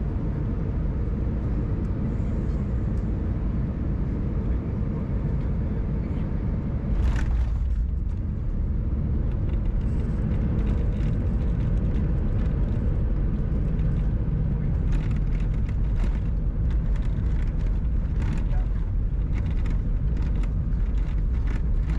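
Airbus A319 cabin noise during landing: a steady low rumble of engines and airflow, a sudden thump about seven seconds in as the wheels touch down, then a slightly louder rumble with repeated rattling of cabin fittings on the rollout.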